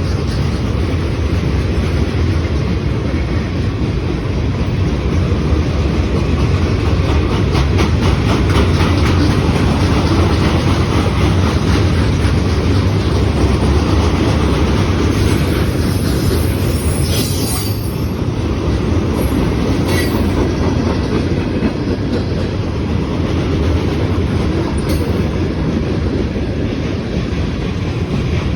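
Freight cars of a manifest train rolling past with a steady heavy rumble and the rapid clicking of wheels on the rail. Brief high-pitched wheel squeals come several times in the second half.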